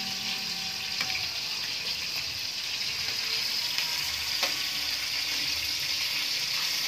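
Chicken skin for chicharon sizzling steadily in hot oil in an aluminium wok, with a couple of light clicks as metal tongs touch the pan.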